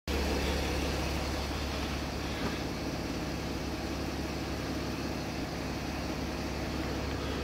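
Hitched car's engine idling, a steady low rumble.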